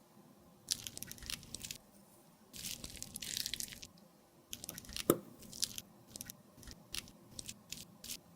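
Crisp crunching and scraping of cosmetics being worked by hand, in two stretches of about a second each, then a sharp tap about five seconds in and a run of short light clicks.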